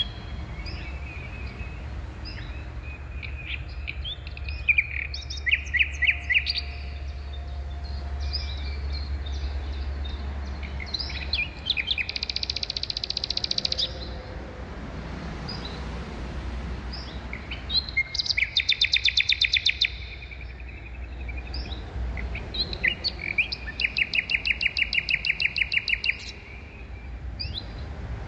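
Songbirds singing, with several runs of fast repeated high notes lasting a couple of seconds each, over a steady low rumble that eases off about halfway through.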